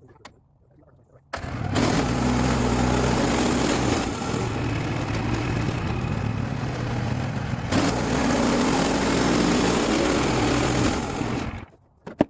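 Engine-driven Woodland Mills band sawmill running under load, the blade cutting along a log, with a steady engine hum under a broad hiss from the cut. It starts abruptly about a second in and stops abruptly near the end, and the hiss eases for a few seconds midway.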